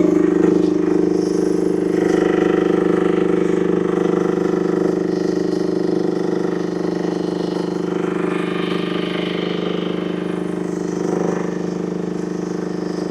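UME10P mini excavator's engine running steadily at a constant speed.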